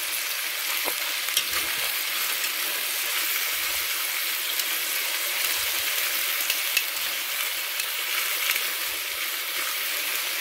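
Chicken escalopes and sliced shallots sizzling steadily in butter in a cast-iron cocotte, the escalopes freshly turned to brown the second side. Occasional light clicks of metal tongs against the meat and pot.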